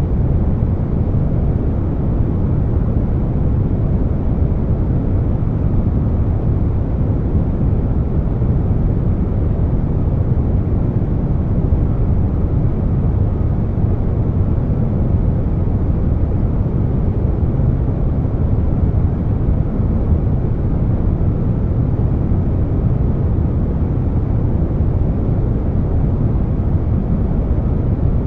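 Continuous air conditioner noise blended with brown noise: a steady, deep rush, most of it low in pitch with little treble.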